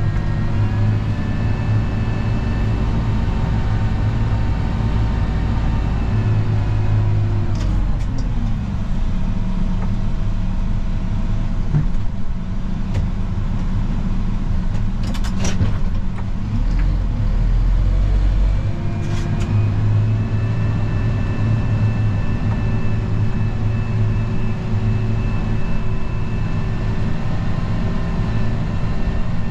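Snow plow vehicle's engine running, its pitch rising at the start and holding steady, dropping back about seven seconds in, then rising again about twenty seconds in and holding. A few brief sharp clicks in the middle.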